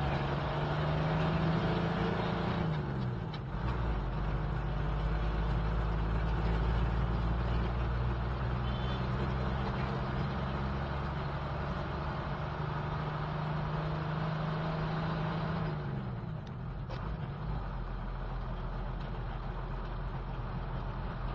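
Old high-mileage BMC truck's engine running under way, heard from the cab, its engine note falling twice: once about three seconds in and again about sixteen seconds in.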